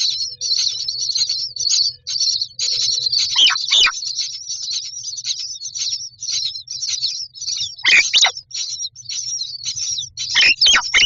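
Common myna nestlings giving a continuous stream of rapid, high-pitched begging chirps inside the nest box. Three louder scratchy rustles sound about three and a half, eight and ten and a half seconds in.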